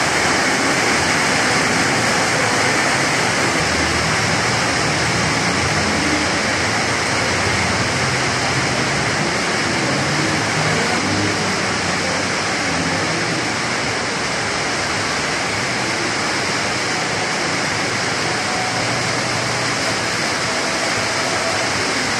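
Steady heavy rain falling on wet tiled paving.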